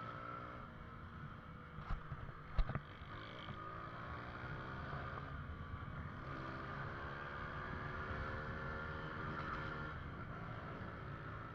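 Motorcycle engine running, its revs rising and falling several times, with two sharp knocks about two seconds in.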